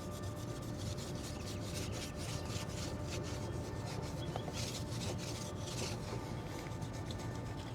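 A rag being rubbed hard on a polished aluminium truck wheel in quick repeated strokes, buffing the outer lip by hand.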